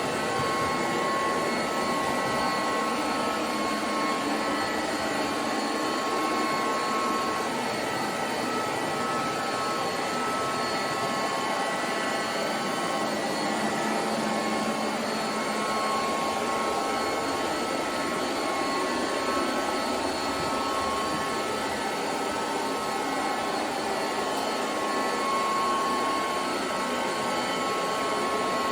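SilverCrest SSR 3000 A1 robot vacuum cleaner running steadily, a constant motor and fan noise with a thin high whine over it.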